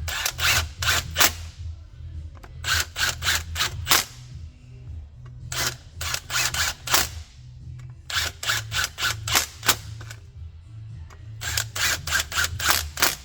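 Runs of quick sharp knocks, five to seven strikes at a time and several runs in a row, over background music with a steady low bass.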